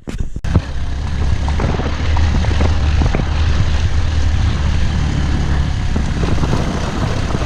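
Motorbike riding along: a steady engine rumble under a constant rush of wind on the microphone.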